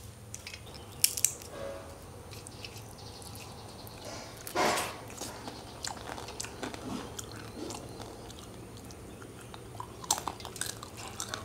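A person chewing crisp, fried, sun-dried bitter gourd chips: a scattered run of short crunches and clicks, with one louder noise about four and a half seconds in.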